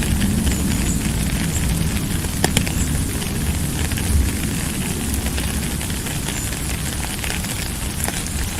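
Steady rain with a crackle of drops hitting a surface over a low rumble, and a few sharper drop hits.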